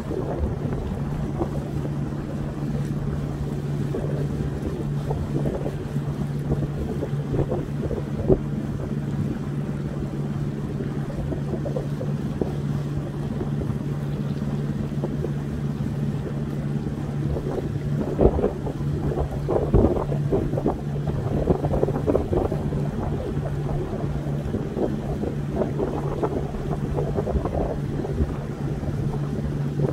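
A small boat's motor running steadily at a constant pitch, with wind buffeting the microphone and water noise; the gusts get stronger in the second half.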